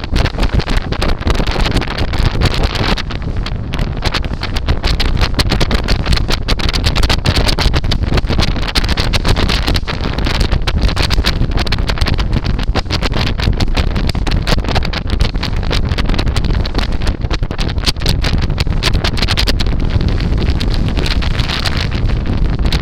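Loud wind buffeting the microphone on a boat underway, over the steady rush of the boat moving through the water.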